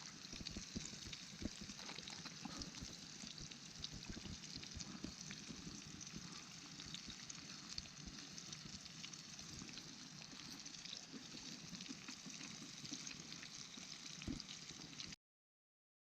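Karaage deep-frying in hot oil: a steady sizzle with small crackles and pops, which cuts off suddenly near the end.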